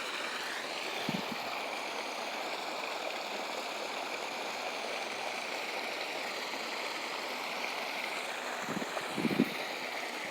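Steady rushing of water pouring over a small waterfall.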